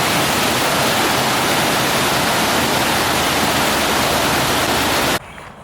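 Loud, steady rush of flowing water that cuts off abruptly about five seconds in.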